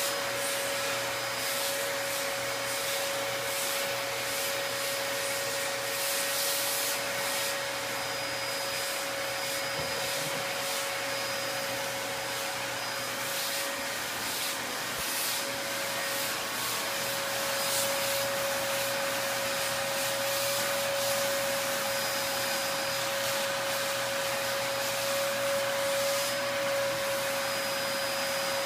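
Vacuum cleaner running steadily with a high whine, its suction hiss changing now and then as the nozzle is passed over a Rottweiler's coat.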